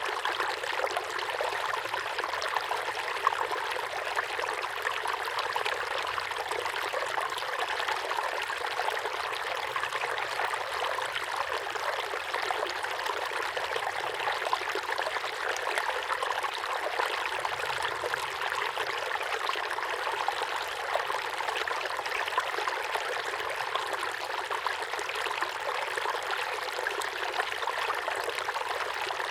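Small waterfall pouring steadily into a pond: continuous splashing and trickling water.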